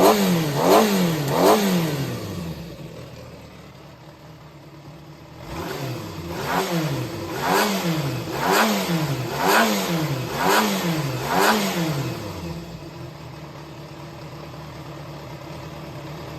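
Yamaha XJR400 (4HM) inline-four engine running on its own as a loose engine assembly, its throttle blipped: three quick revs, a settle to idle, then about seven more revs roughly a second apart before it drops back to a steady idle. The seller describes it as running well with no abnormal noise.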